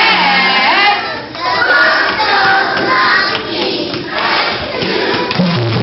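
Several young children's voices singing and shouting together over music.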